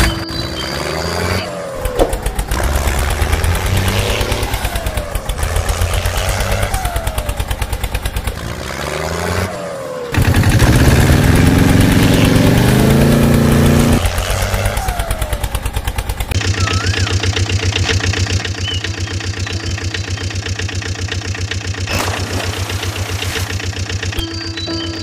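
Vehicle engines idling and revving, with the sound changing abruptly several times. Between about ten and fourteen seconds in there is a louder stretch with rising engine pitch.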